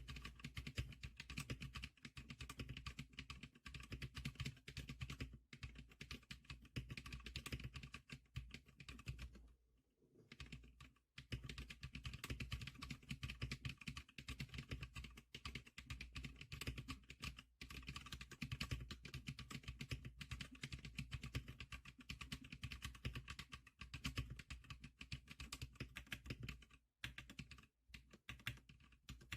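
Fast, continuous typing on a Zigclicker SPK100 keyboard, keystrokes clattering densely, with a pause of about a second about ten seconds in and a brief one near the end.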